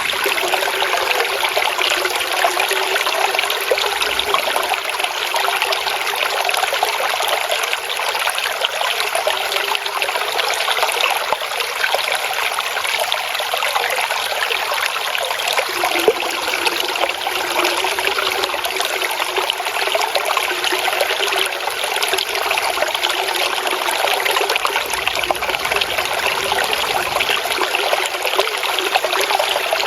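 Water flowing and trickling steadily in a small stream, a continuous babbling rush with most of its sound in the middle and upper range and hardly any low rumble.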